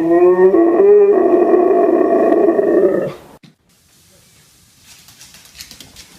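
A dog howling in one long, wavering howl of about three seconds that rises in pitch at first and then holds. A few faint clicks follow near the end.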